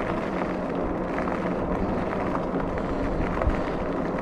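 Steady rolling noise from a Rad Rover Step-Thru electric fat-tire bike on the move: tires running on the road.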